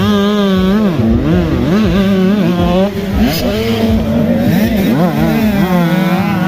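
Motocross bike engines revving hard, their pitch rising and falling quickly and repeatedly as the throttle is worked, over a steadier engine note underneath.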